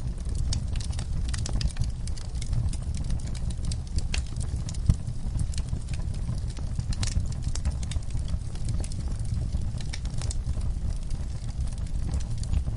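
Wood fire burning in a fire pit, the logs and coals crackling with many irregular sharp pops over a steady low rumble.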